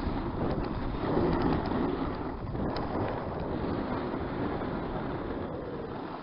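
Wind buffeting the microphone, a steady rushing noise that swells slightly about a second in.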